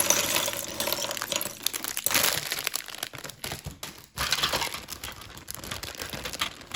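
Plastic packaging crinkling and rustling as it is handled and opened, with scattered small clicks.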